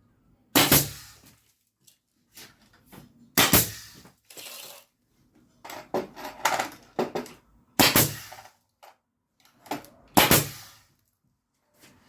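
A concrete nailer driving nails through wooden furring strips into a concrete ceiling: four loud, sharp shots a few seconds apart, with smaller clicks and knocks between them.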